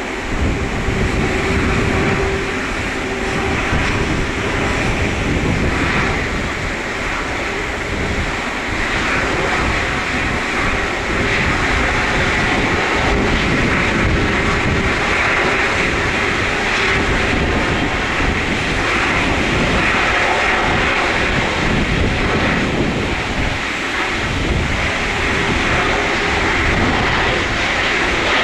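Boeing 777-300ER's GE90 turbofan engines running at low taxi power: a steady, loud jet noise with a hissing upper band. Wind buffets the microphone with an uneven low rumble.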